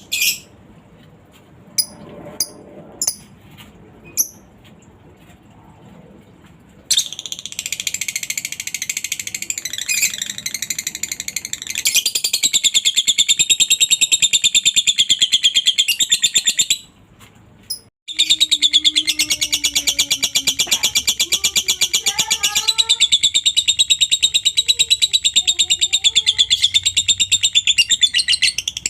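Lovebird singing its long, fast, high chattering trill (the 'ngekek' song), starting about seven seconds in after a few scattered short chirps. It breaks off briefly in the middle, then carries on.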